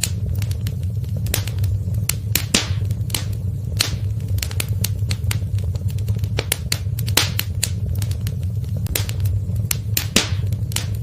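Wood fire crackling in a fireplace: irregular sharp snaps and pops, several a second, over a steady low rumble of burning.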